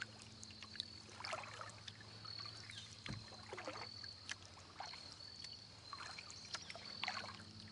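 Kayak paddle strokes in calm river water: soft splashes and drips as the blades dip and lift, about once a second. A low thump about three seconds in.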